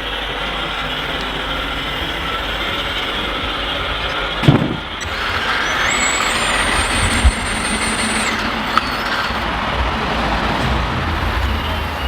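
Radio-controlled construction models running, a steady mechanical whirr. There is a knock about four and a half seconds in and a thin high whine from about six to eight seconds.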